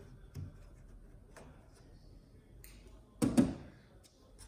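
A few light clicks and taps, then one louder knock a little after three seconds in: hard plastic and metal parts of a disassembled TV speaker being handled and set down.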